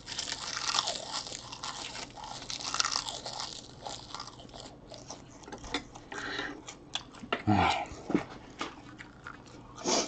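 Close-up chewing of a big mouthful of dried laver (gim) sheets: dense crisp crunching at first, thinning about halfway to softer chewing with scattered crackles and a couple of louder mouth sounds.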